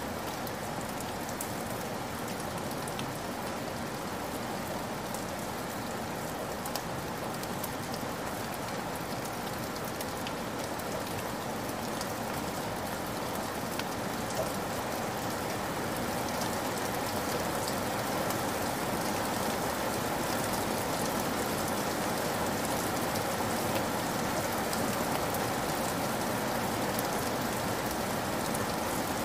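Heavy rain falling steadily and splashing onto wet ground, a dense patter of drops that grows slightly louder about halfway through.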